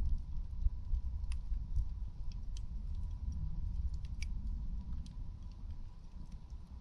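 Campfire burning: irregular sharp crackles and pops from the wood over a low, steady rumble.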